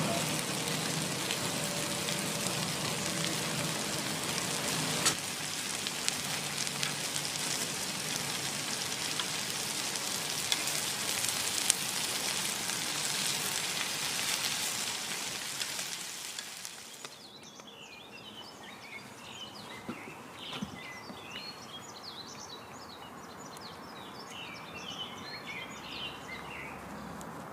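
Steady sizzling with scattered small crackles, like food frying in a pan, which stops suddenly about two-thirds of the way in. After that, birds chirp in short, quick calls.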